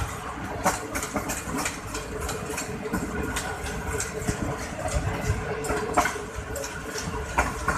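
Passenger train running at speed, heard from a coach window: a steady drone under the rush of the moving train, with irregular sharp clacks of the wheels over the track, the loudest about a second in and near six seconds.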